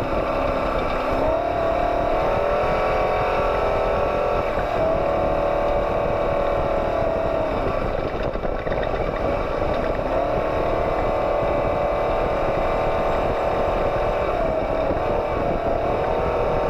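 Off-road race truck engine running steadily under way, its pitch rising and falling a little with the throttle.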